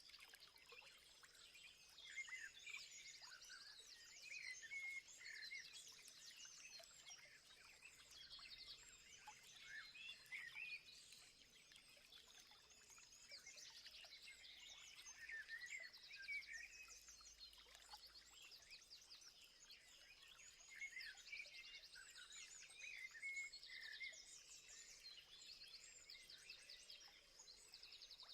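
Faint chorus of birds chirping and calling, many short notes and fast trills overlapping, over a steady thin high tone.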